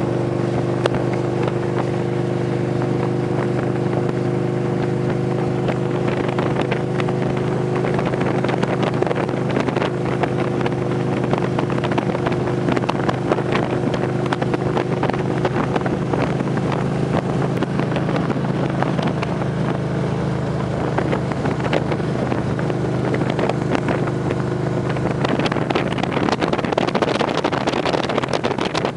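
Victory police motorcycle V-twin engine running at a steady cruise, its pitch holding even throughout, with wind buffeting the microphone.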